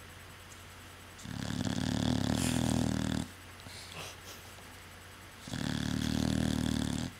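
A sleeping dog snoring: two long, loud snores of about two seconds each, a couple of seconds apart.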